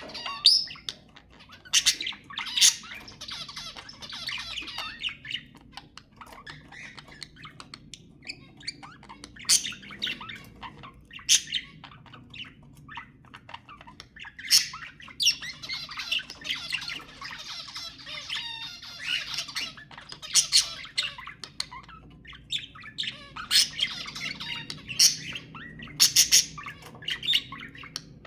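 Budgerigars chattering and warbling in long stretches, broken again and again by short, sharp squawks and chirps.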